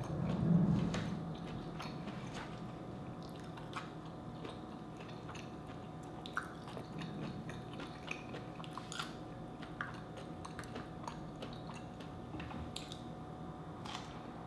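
Close-up chewing and biting of vegetables eaten by hand, with wet mouth sounds and scattered crisp clicks and crunches. A short low closed-mouth hum comes in the first second.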